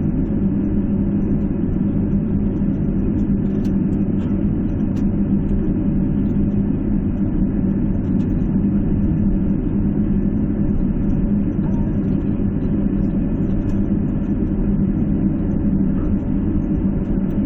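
Steady low drone of an airliner cabin taxiing after landing: engine and cabin air noise with a constant hum tone running through it.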